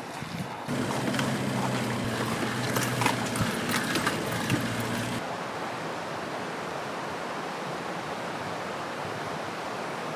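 A vehicle engine running with knocks and rattles, cutting off suddenly about five seconds in to a steady rushing noise.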